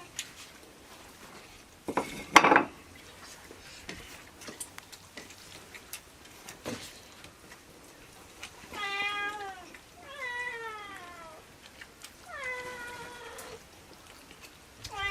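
A cat meowing three times in the second half, each call long and falling in pitch. A loud, short noise about two seconds in.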